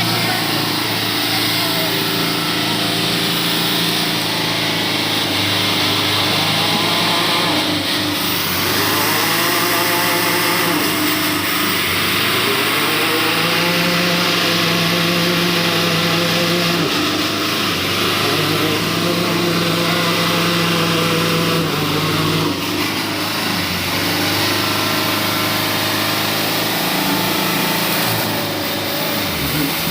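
A motor vehicle's engine running under load, its revs rising and falling repeatedly.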